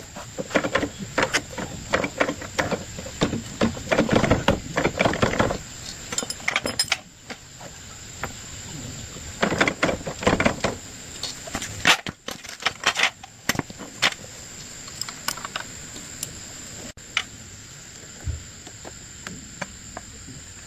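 Quick runs of clattering knocks and clicks, a dense spell at the start and another about ten seconds in, with scattered single knocks later, over a steady high-pitched hum.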